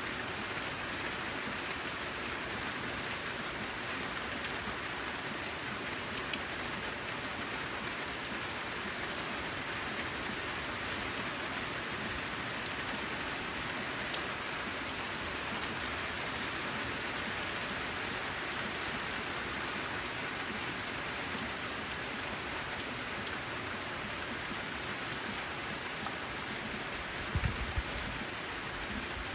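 Steady heavy rain falling on a corrugated zinc roof, an even hiss dotted with fine drop ticks. A brief low thump comes near the end.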